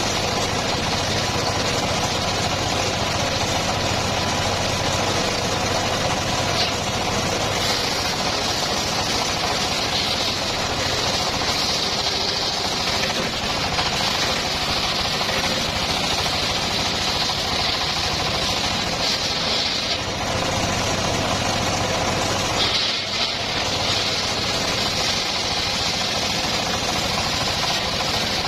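Homemade engine-driven circular sawmill running steadily while sawing teak, with a brighter hiss that comes in for two long stretches and a short dip between them.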